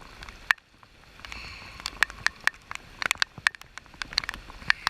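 Rain falling, with raindrops striking the camera housing as many sharp, irregular taps over a steady hiss of rain and river water. The hiss dips briefly about half a second in.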